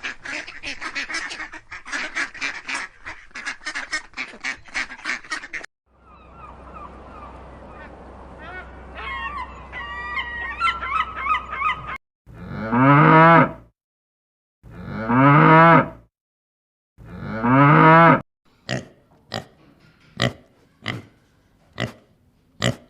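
A run of farm animal calls: poultry calling rapidly over one another for the first few seconds, then three long, loud moos from a cow about two seconds apart, followed by a string of short calls.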